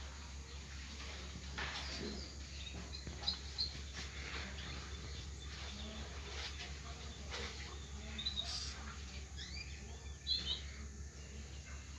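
Birds chirping in short, scattered high calls, with a few sharper sounds among them and a steady low hum underneath.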